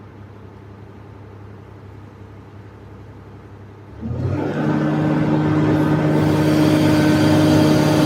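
Komatsu PC350LC excavator's diesel engine running low and quiet, then about four seconds in it rises sharply to a loud, steady working note that holds to the end.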